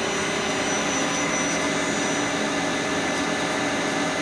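Lucas 542B horizontal boring mill's spindle and gearbox running steadily at 600 RPM in high range: a steady mechanical hum with several held tones.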